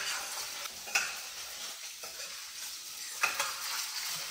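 Ginger, garlic and green chili paste sizzling in hot oil in a stainless steel kadai, stirred with a metal spoon that clinks against the pan three times.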